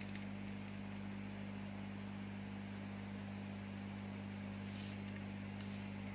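Steady electrical mains hum with a faint hiss, and a couple of faint clicks.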